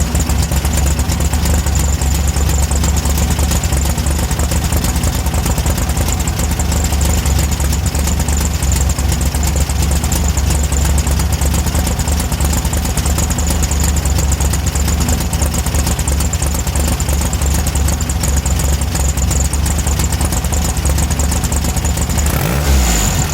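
Air-cooled Volkswagen Beetle flat-four engine idling steadily on a newly installed Magnaspark II electronic distributor, with the ignition timing just set at 29. Near the end its note briefly shifts in pitch.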